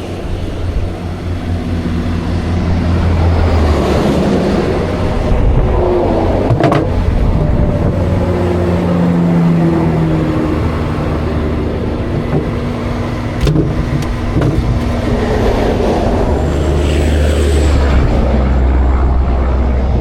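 Interstate traffic going past close by, vehicles swelling and fading one after another over a steady low engine rumble. Two sharp metallic knocks, about a third and two-thirds of the way through.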